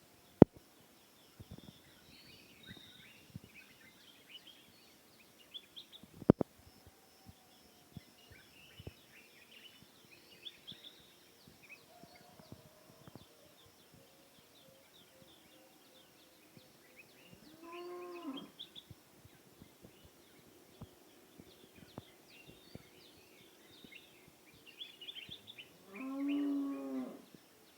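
Dawn chorus of many small birds chirping and twittering. Two drawn-out, moo-like calls from a farm animal, about a second each, come in the second half. Two sharp clicks, near the start and about six seconds in, are the loudest sounds.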